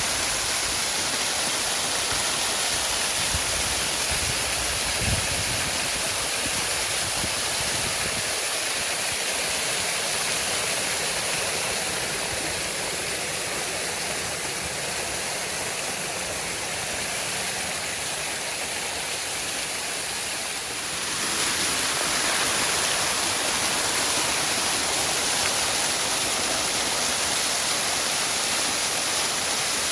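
Waterfall rushing: a steady, full hiss of falling water that softens slightly for a stretch midway and then comes back up about two-thirds of the way through. A brief low thump about five seconds in.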